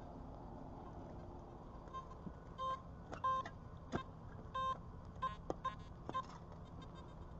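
Metal detector giving a series of short electronic beeps, about six of them starting roughly two and a half seconds in, as it sounds off over buried metal. A few sharp clicks fall among the beeps.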